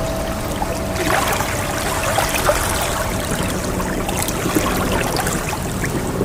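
Ocean waves washing and trickling in a steady wash of water noise, with a faint steady tone underneath that fades out after a few seconds.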